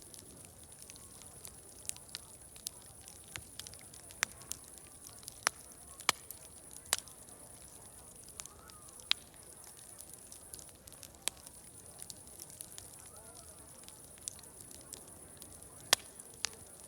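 Wood fire crackling, with irregular sharp pops a second or so apart, over a steady high hiss and a faint murmur of distant voices.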